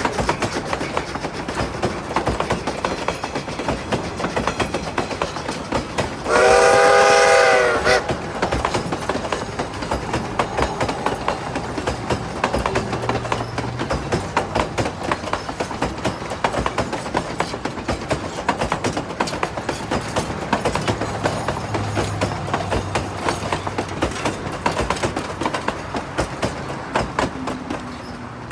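A narrow-gauge steam train running, its wheels and cars clattering and clicking over the rail joints. About six seconds in, one short blast of the steam locomotive's whistle, under two seconds long, is the loudest sound.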